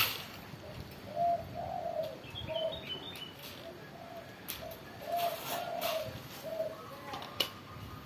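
A bird repeating short, low, cooing notes about twice a second, with a few brief higher chirps about two to three seconds in. Sharp clicks and rattles of a wire bird cage and its plastic feed cup being handled come in between.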